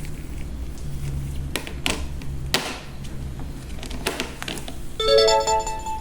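A few sharp clicks and taps, then about five seconds in a short rising run of bright notes lasting about a second, like a little jingle.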